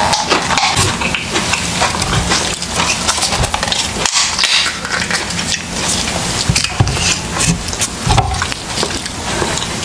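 Close-miked chewing of crisp cucumber slices: a run of irregular crunches and crackles.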